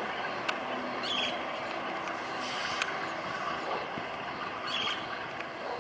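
Passenger train rolling along a curved track: a steady hiss and rumble of wheels on rails, with a few sharp clicks and two brief high chirps.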